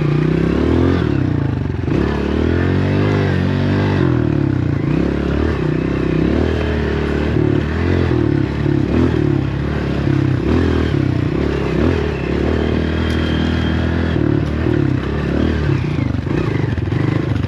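Dirtbike engine being ridden hard, its pitch rising and falling continually as the throttle is opened and closed, with some clatter over rough ground.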